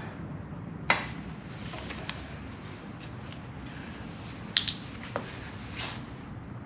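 About five sharp metallic clinks and knocks, the loudest about a second in and past the middle, over a steady low hum: hand tools and exhaust hardware being handled during a slip-on muffler install.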